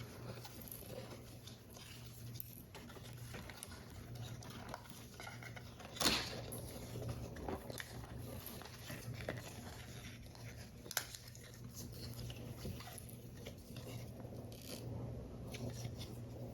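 Paper model pieces being handled and assembled: soft rustling of card and paper with small taps, and sharper clicks about six seconds in and again near eleven seconds, over a steady low hum.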